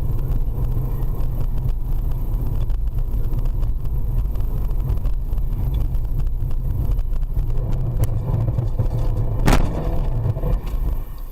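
Steady low rumble of a car driving on a winter road, road and engine noise as a dashcam picks it up, with a sharp knock about nine and a half seconds in.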